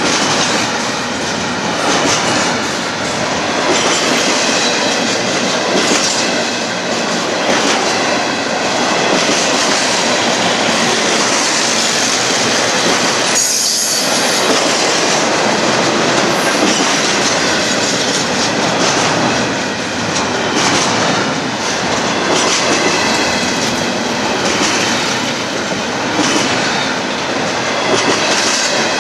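Union Pacific intermodal container train rolling past: a continuous clatter of wheels over the rails with a high wheel squeal.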